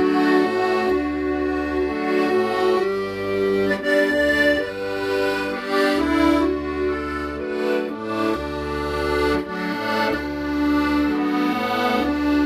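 Accordion playing a slow, sustained melody with held notes over low bass notes that change every second or two.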